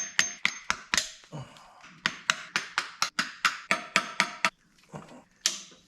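Rapid hammer blows on diesel engine parts during a teardown: about four sharp knocks a second for roughly four seconds, then two slower knocks near the end.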